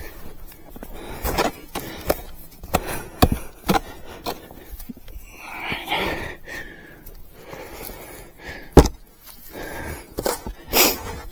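Snow shovel cutting into and scooping deep snow, irregular crunches and scrapes, with a heavy breath about six seconds in and a sharp knock, the loudest sound, near nine seconds.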